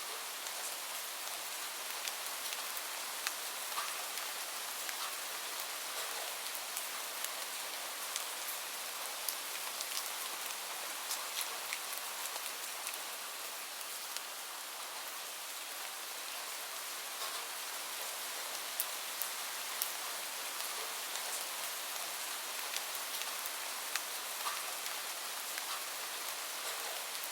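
Steady rain falling on a surface, an even hiss with many small individual drop ticks scattered through it.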